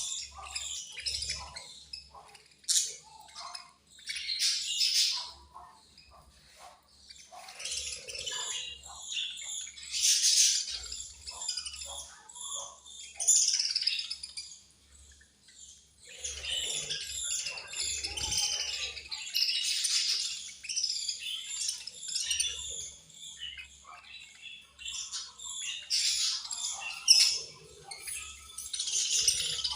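Several budgerigars chirping and chattering: quick, high twitters that come and go in bursts, with short lulls between them.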